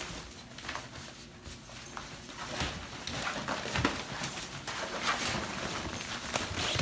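A dog's sounds: irregular short clicks and scuffling, busier from about two and a half seconds in.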